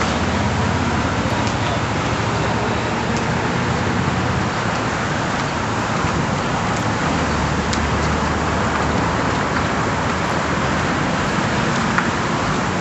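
Steady vehicle engine hum and road noise, heard from inside a moving vehicle.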